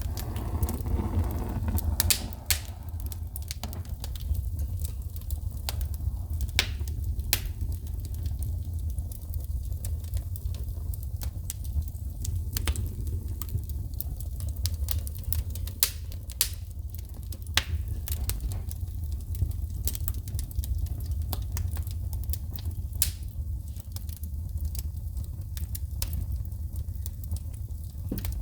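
Wood fire burning in a fireplace, crackling with sharp, irregular pops of shooting sparks over a steady low rumble of the flames.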